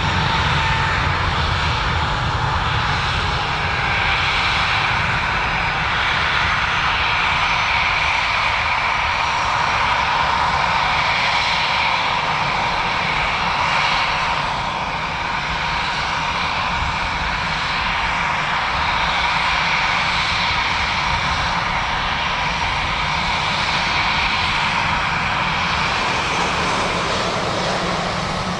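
Airliner engines running with a steady high whine over a low rumble, holding fairly even in level throughout.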